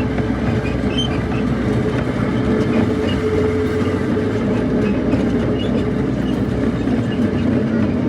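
Small amusement-ride train rolling along its track: a steady, loud rumble of wheels on rail with light clicking, and a steady whine that fades out about six seconds in.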